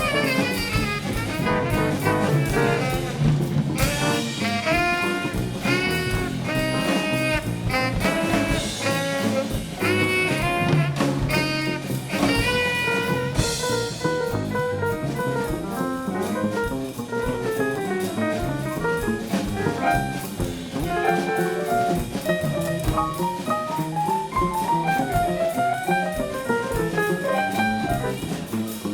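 Live band playing a jazz number: a melodic lead line with bending, gliding notes over a drum kit and bass.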